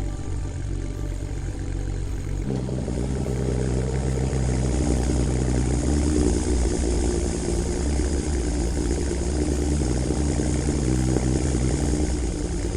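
Heavy machinery engine running steadily, its sound shifting and getting louder about two and a half seconds in.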